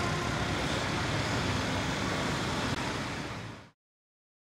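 Steady running noise of a diesel-hauled passenger train, mixed with city road traffic. It cuts off suddenly about three and a half seconds in.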